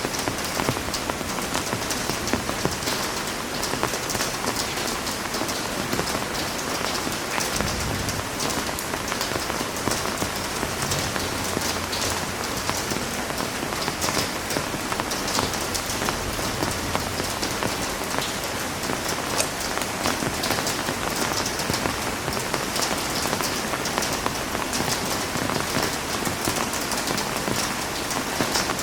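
Heavy rain falling steadily on a surface, a dense even hiss full of fine drop patter.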